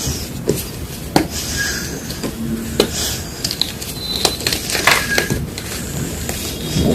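Reformed gym chalk crunching and crumbling, with irregular sharp snaps and crackles.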